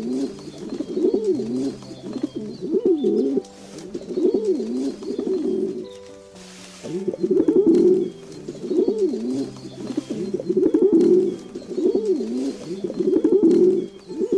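City pigeon cooing over and over: about a dozen low, rolling coos, one every second or so, over soft background music.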